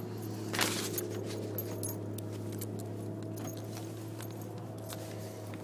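Light metallic jingling and small clicks over the steady low hum of a car's idling engine, with one louder brief rustle about half a second in.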